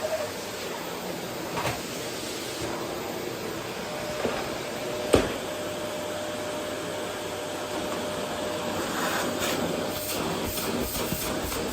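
Vacuum cleaner running steadily over a wooden floor. There is one sharp knock about five seconds in, a few lighter knocks, and a patch of clattering near the end.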